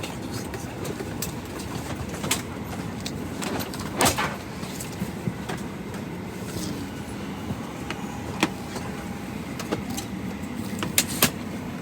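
Steady rush of an airliner cabin's air system, with scattered knocks and thumps of bags and overhead bins, the loudest about four seconds in.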